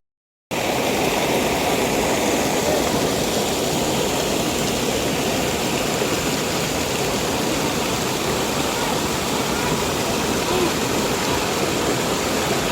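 Steady, loud rush of flowing water, starting abruptly about half a second in.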